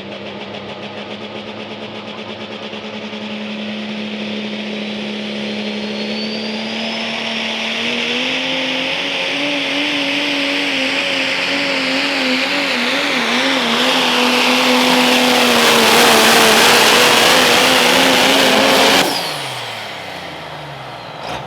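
Turbocharged pro stock diesel pickup truck pulling a weight sled at full throttle: a steady engine drone that steps up in pitch about eight seconds in and then wavers, with a turbo whistle and a rushing noise growing louder. Near the end the throttle is cut suddenly and the engine winds down.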